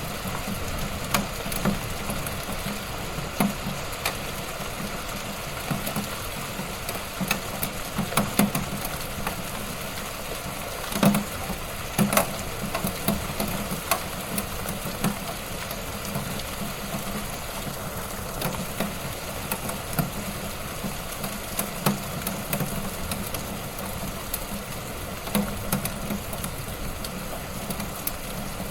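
Wood fire in a fireplace crackling steadily, with irregular sharp pops and snaps over a constant low rush of burning, a few louder pops near the middle.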